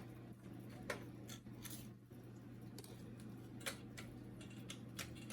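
Faint, irregular clicks and ticks of a screwdriver undoing screws and handling the plastic and metal parts of an HP LaserJet P1102W printer, over a steady low hum.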